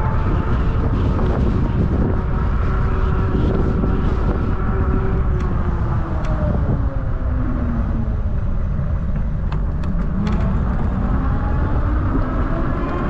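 Wind rushing over the microphone and the whine of a 750 W electric fat-tire bike's motor and tyres at speed. The whine slides down in pitch through the middle and climbs again near the end as the bike slows and picks up.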